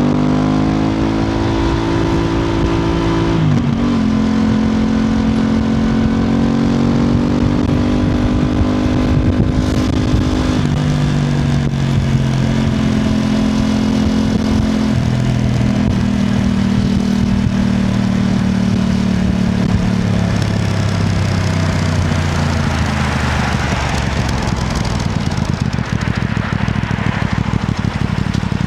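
Aprilia RS660 Extrema's parallel-twin engine heard from the rider's position: it accelerates with a gear change a few seconds in, holds a steady cruise, then drops in pitch in several steps as the bike slows with downshifts, running low and steady near the end.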